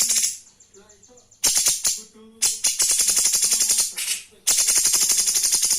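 A cungkok songbird singing in rapid, high, rattling trills: phrases of a second or so, each a fast run of sharp notes, broken by short pauses, four in all.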